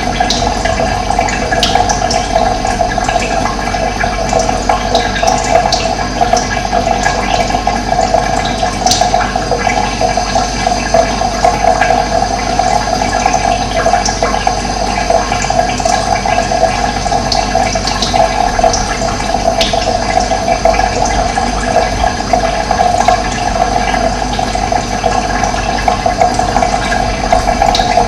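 Running water flowing steadily, with a few short, high bird chirps over it.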